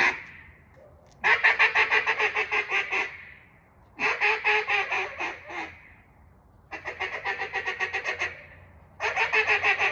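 Untuned black Delrin Singleton cutdown duck call being blown in four runs of rapid, choppy notes, about eight a second, with short pauses between runs.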